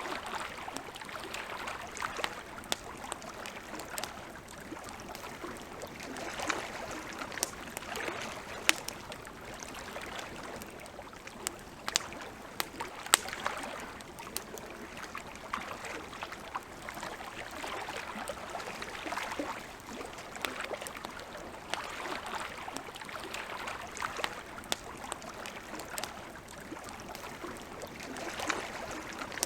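Campfire crackling, with frequent sharp pops at irregular moments, over a soft wash of lake water that swells and fades every few seconds.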